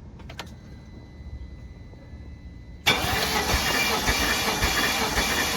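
BMW M62 V8 engine being cranked over by its starter motor for a compression test. It starts suddenly about three seconds in and keeps a steady rhythm of compression pulses. The cylinder under test reads about 175.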